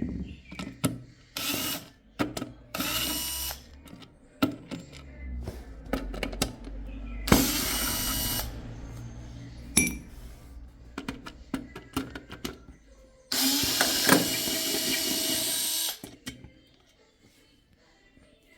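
Cordless electric screwdriver running in four short bursts, the last and longest about two and a half seconds, backing screws out of a PC case. Clicks and knocks of screws and metal parts fall between the bursts.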